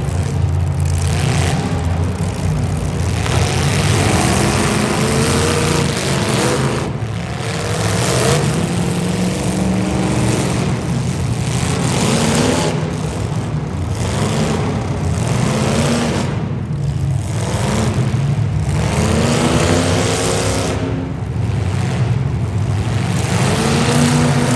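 Demolition derby car engines revving hard over and over, their pitch climbing and dropping every second or two.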